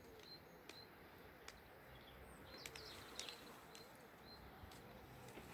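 Faint outdoor ambience with distant birds chirping, short high calls about once a second, and a few soft clicks.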